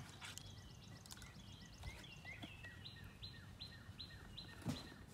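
A songbird singing a fast series of repeated notes, about three a second, over quiet outdoor background noise. A single sharp knock near the end.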